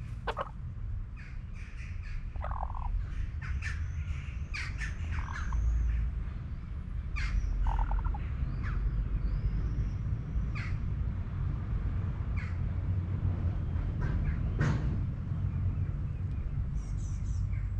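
Birds calling: scattered short harsh calls mixed with high thin whistles and chirps, over a low steady rumble.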